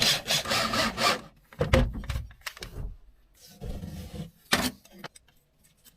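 Irregular knocks, scrapes and sharp clicks of hand work refitting a battery-holding bracket in a small aluminium boat, with a quiet pause near the end.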